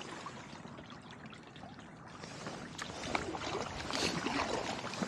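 Kayak paddle strokes in calm river water: the blades dip in, and water splashes and trickles off them. The sound eases about a second in and picks up again past the middle.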